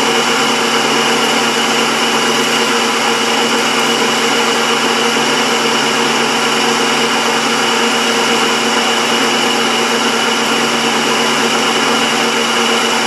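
Old metal lathe running steadily, its motor driving through only one of its two V-belts: a constant hum with a steady high-pitched whine from the drive.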